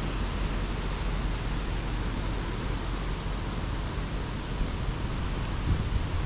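Heavy wind rushing and buffeting the microphone as a steady noise with a low rumble, with a few low thuds near the end.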